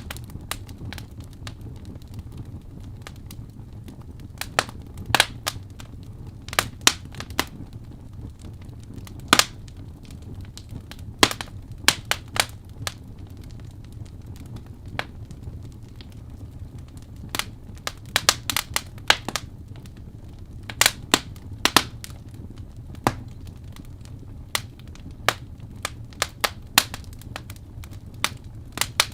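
Fireplace wood fire crackling, with irregular sharp pops over a low, steady rumble.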